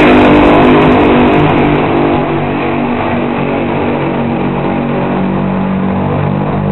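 Nostalgia front-engine top fuel dragster's supercharged engine running very loud. About two seconds in it drops to a lower, steadier pitch and level.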